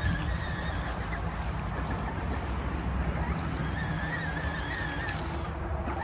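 Steady low rumble of a moving vehicle on the drive, with a faint wavering high whine about four seconds in.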